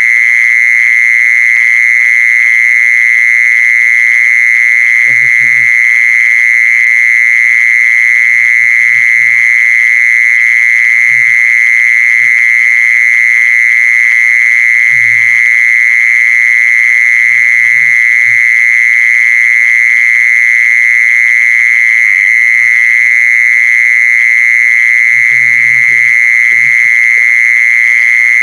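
Continuous insect trill of the insect called jeeson (แมลงจีซอน) in Thai: one loud, unbroken, high buzzing tone held at a steady pitch.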